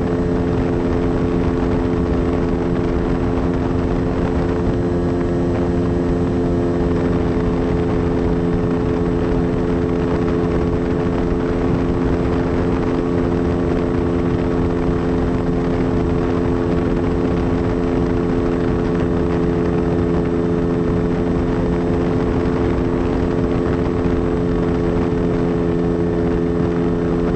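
Propeller aircraft motor running at a constant, steady pitch, with rushing wind-like noise underneath.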